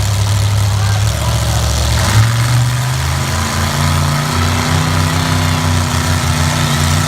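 Lifted pickup truck engine running hard under load in a truck tug-of-war; its note shifts about two seconds in and then climbs slowly as it revs.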